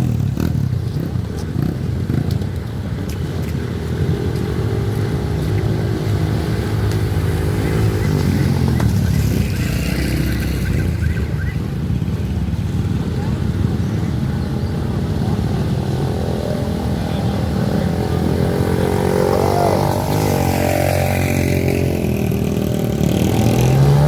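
Trail motorcycle engines running and revving, with a few rises and falls in pitch, and people's voices mixed in.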